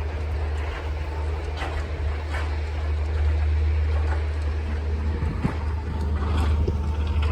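Street ambience on a snowy walk: a steady low rumble with a few faint steps through it.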